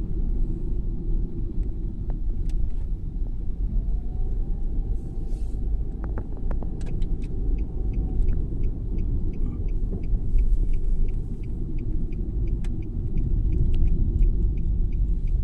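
Sandstorm wind buffeting the microphone as a steady low rumble. Through the second half there is a light, regular ticking, about two to three ticks a second.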